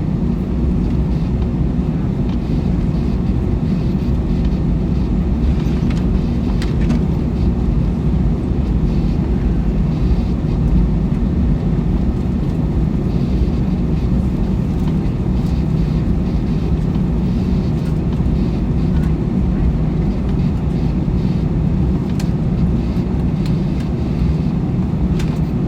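Steady cabin rumble inside an Airbus A321 with its engines at idle, the jet on the ground before takeoff, with a few faint clicks.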